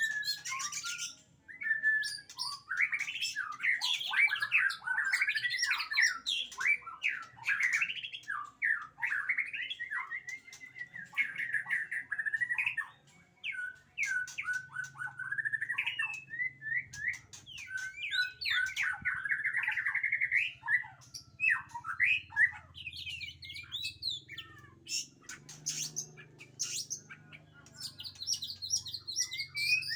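White-rumped shama (murai batu) singing a long, varied song of rapid whistles, trills and chirps, with brief pauses about a second in and again near the middle.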